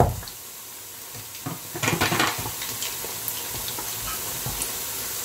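Churros frying in hot oil in a pan, a faint steady sizzle. It is broken by a knock at the start and, about two seconds in, a spoon scraping and clattering in a saucepan of thick Spanish hot chocolate.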